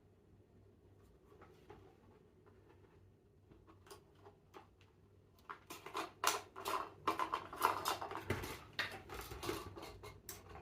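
Scattered faint clicks, turning about halfway through into a louder, dense run of light clattering and rattling.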